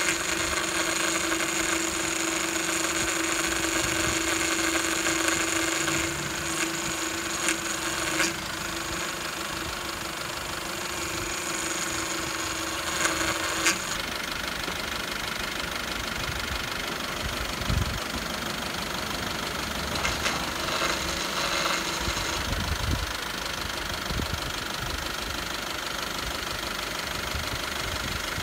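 SsangYong engine idling while the steering is turned from lock to lock, so the power steering pump pushes the old fluid out through the return hose. A steady whine runs over the engine and stops about fourteen seconds in, with a few short knocks.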